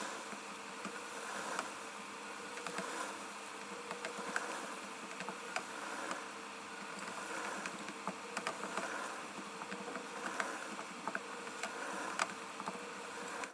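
Steady outdoor insect chorus: a dense chirring that swells and fades about every second and a half, with a few faint clicks.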